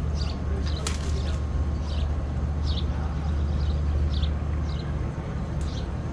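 A small bird chirping, short high chirps repeated every half second to a second, over a steady low rumble, with one sharp click about a second in.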